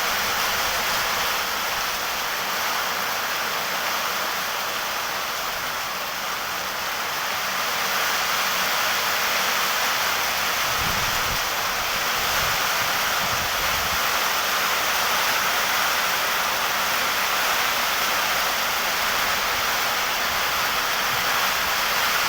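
Heavy rain pouring down, a loud, steady rush of water noise, with a few brief low rumbles about halfway through.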